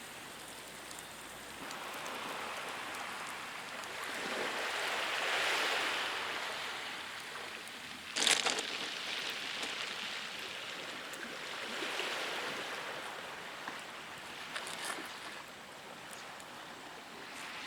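Small waves washing onto a beach, the surf swelling and fading every few seconds, with one sudden louder burst about eight seconds in.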